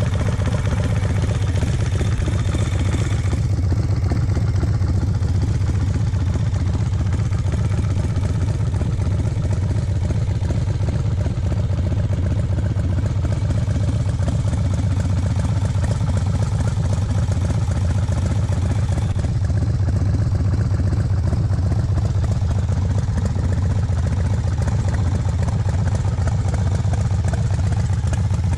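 Custom chopper motorcycle's engine idling steadily with an even, low beat.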